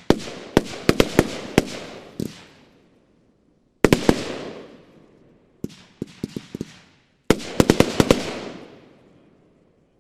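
TNT Fata Morgana 25 mm firework battery firing in quick volleys: sharp reports come in clusters, each followed by a hissing, crackling tail that fades. There are four groups of shots, and the last dies away about nine seconds in.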